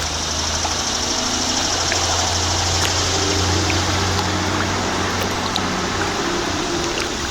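Water splashing and trickling around a kayak being paddled, over a steady high hiss.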